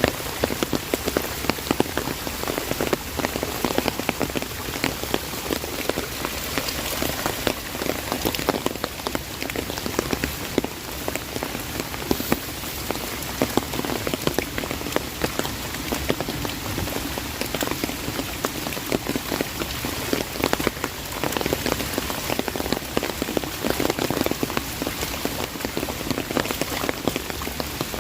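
Heavy rain drumming on an umbrella overhead: a dense, steady patter of countless sharp drop taps over the hiss of the downpour.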